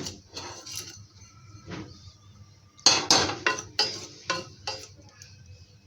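Spatula scraping and knocking against an Amway Queen stainless-steel pan while stirring roasting semolina: a string of short strokes, with a cluster of louder ones about three seconds in.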